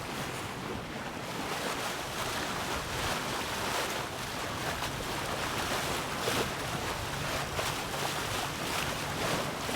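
Steady rush of water along the hull of a Hanse 385 sailing yacht under sail, close to the wind, mixed with wind noise, with small surges as waves pass.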